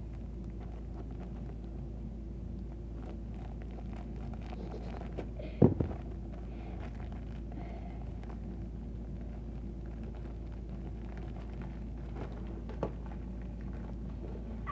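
Steady low room hum with a single sharp knock about six seconds in and a faint click near the end.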